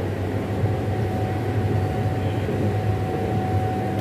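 An LHB Vistadome coach running along the rails, heard from inside the coach: a steady low rumble with a thin, steady hum over it.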